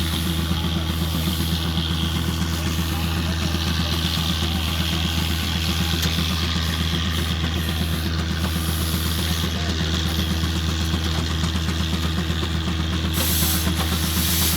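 An engine running steadily at idle, giving an even low hum, with a brief rise of hiss near the end.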